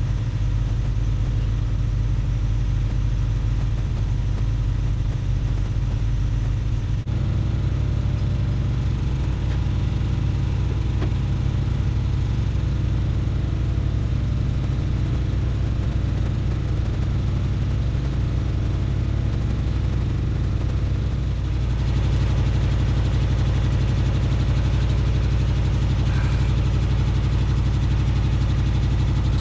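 A 1973 Ford F-250's 360 V8 idling steadily, with an abrupt shift in the sound about seven seconds in and a slight rise in level later on.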